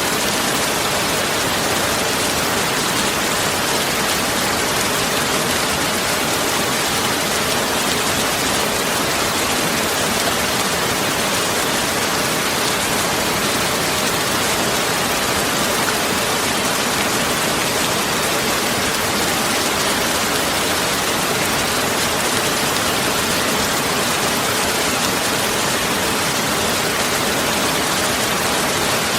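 Steady, even rushing noise of heavy rain, spread from low to high pitch with no separate drops or tones standing out.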